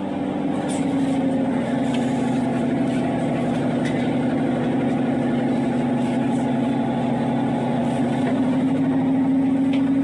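Diesel multiple-unit train's underfloor engine running steadily, heard from inside the carriage, a constant drone that grows slightly louder over the first couple of seconds.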